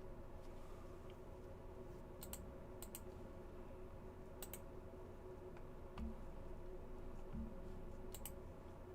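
Scattered sharp clicks, mostly in quick pairs, over a steady low electrical hum, with two soft thumps in the second half.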